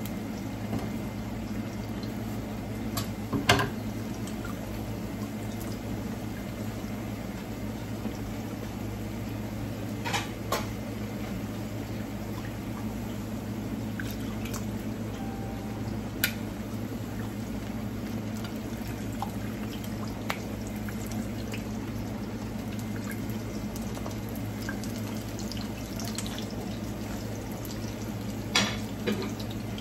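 Ripe plantain slices frying in oil in a pan: a steady sizzle, with a few sharp clinks and knocks of utensils and a plate, the loudest about three and a half seconds in.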